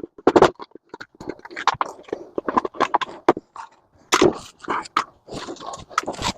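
Irregular knocks and clatter of metal scrap parts being struck and handled while a microwave is dismantled for its copper and aluminum.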